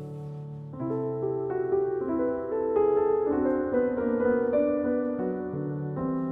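Background piano music: a slow melody of held notes over sustained chords, swelling a little in the middle.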